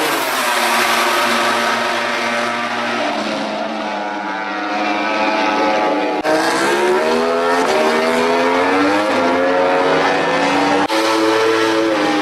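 MotoGP prototype racing motorcycles' four-cylinder engines at high revs, the pitch rising and falling as they accelerate, shift and brake around the circuit. The sound jumps abruptly to a new engine note twice, about six and eleven seconds in.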